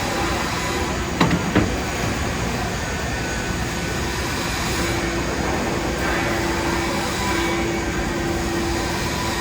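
TIG (argon) welding in progress: a steady hiss and hum from the arc and welding set. There are a couple of sharp clicks about a second in, and a steady hum tone joins about five seconds in.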